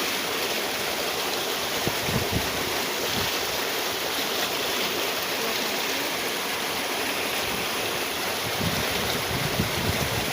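Steady rushing of flowing water, with a few low rumbles around two seconds in and near the end.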